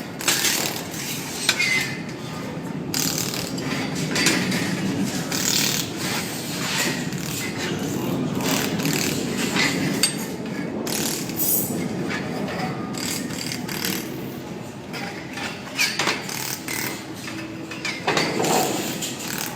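Machinery clattering, with irregular clicks and knocks over a steady mechanical noise.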